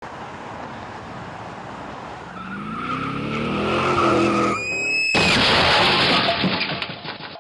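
A car accelerating with its engine rising in pitch, a short tyre squeal, then a sudden loud crash of vehicles colliding about five seconds in, with clattering that fades over the next two seconds.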